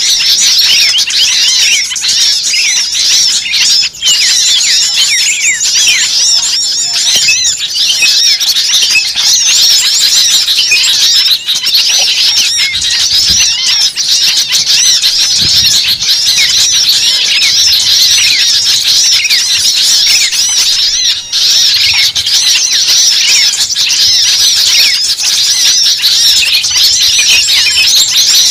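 A dense chorus of many small birds chirping and chattering at once, loud and unbroken throughout.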